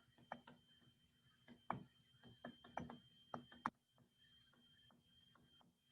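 Faint taps and short scratches of a writing tool tracing the letters of a sentence, clustered in the first four seconds.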